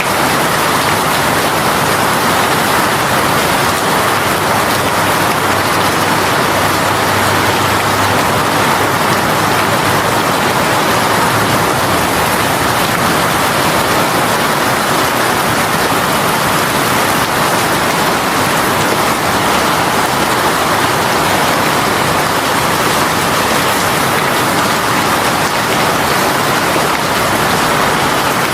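Heavy rain shower falling steadily: a dense, even hiss of rain on surfaces.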